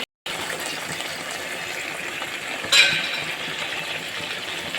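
Chicken in spice masala frying in a pan as it is slow-fried (kosha), a steady sizzle, with a sharp clink of the spatula against the pan a little under three seconds in.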